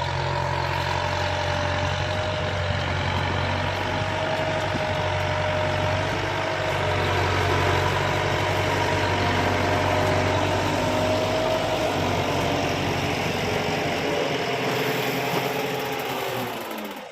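Kubota tractor's diesel engine running steadily while planting sugar cane, a little louder mid-way and dropping away near the end.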